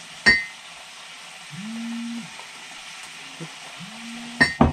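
Onions and chicken sizzling steadily in a frying pan, with a sharp metallic clink about a third of a second in and a few knocks near the end. A mobile phone on vibrate buzzes twice, each buzz under a second long, an incoming call.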